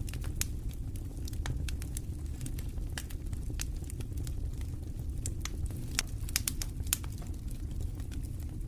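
Campfire crackling, irregular sharp pops and snaps, over a steady low rumble of wind.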